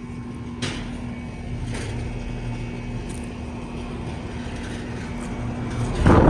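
Carrier central air conditioner outdoor units running: a steady scroll-compressor hum with one constant tone over the low rumble of the condenser fans. A sudden louder rush of noise comes in near the end.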